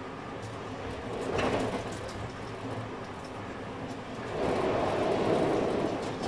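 Onboard sound of a JR West 223 series 2500 electric train: a steady low hum, with a short swell of noise about a second and a half in and a louder rumble from about four seconds in until near the end.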